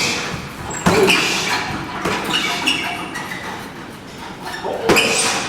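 Two heavy Kun Khmer training strikes land with loud thuds, one about a second in and one near the end.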